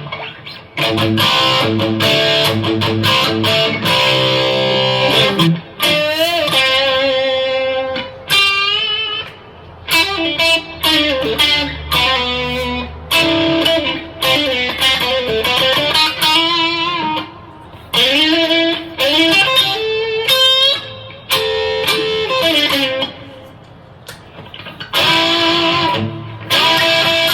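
Electric guitar with Filtertron pickups played through a Donner Dark Horizon distortion pedal. It moves between strummed chords and single-note lead phrases with bends and vibrato, the notes carrying strong overtones.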